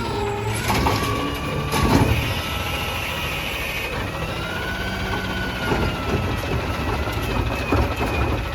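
Peterbilt 320 garbage truck running, its engine whine rising and falling in pitch. A loud clank comes about two seconds in, with a few lighter knocks later.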